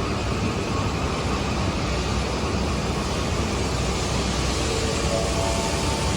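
Mitsubishi escalator running: a steady, even mechanical noise with a few faint short tones near the end.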